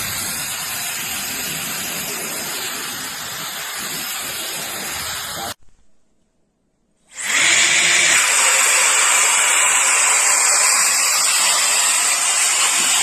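K&F Concept BS400 electric air duster running with a steady rush of air. It cuts off a little over halfway through, then about a second and a half later starts up again, louder and with a high steady whine.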